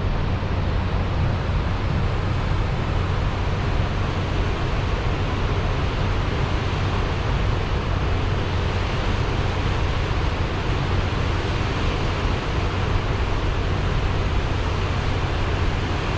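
Steady rushing water, an even roar with no breaks, starting and stopping abruptly with the shot.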